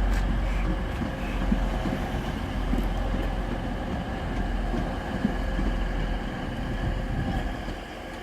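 Diesel passenger train running close by as it comes into the station platform, a steady low rumble with a hum over it that eases off near the end.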